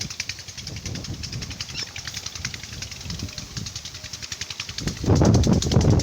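Strong wind buffeting the microphone in uneven gusts, swelling into a heavy rumble about five seconds in, over a fast steady ticking.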